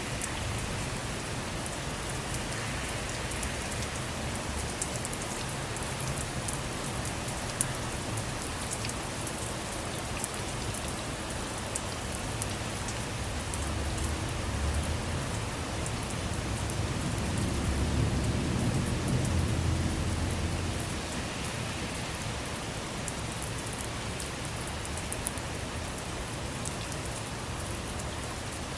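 Steady rain falling on a car, with many small drop ticks in the hiss. About two-thirds of the way in, a low rumble of thunder swells for a few seconds and fades.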